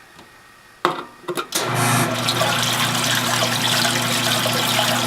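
1980 GE washing machine started up: a sharp click a little under a second in, a few knocks, then the motor hums steadily while water rushes and churns in the tub. The machine is running again now that the burnt wiring at the motor harness plug has been bypassed.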